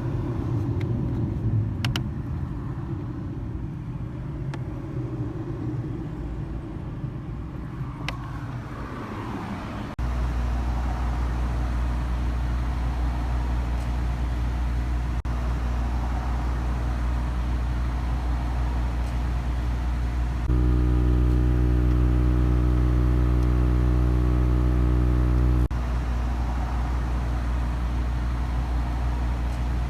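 Car engine idling with the air conditioning on, a steady low hum. About two-thirds of the way through, a louder droning hum with many tones cuts in for about five seconds and then stops abruptly, in the on-off way of the A/C compressor cycling.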